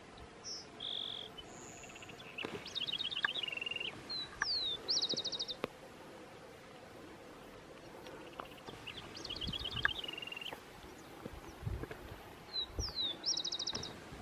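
A songbird singing the same song twice, each a string of quick high trills and short falling whistles.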